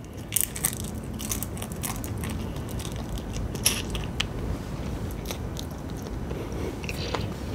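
A person chewing crispy fried chicken, with scattered crunches and small wet mouth clicks.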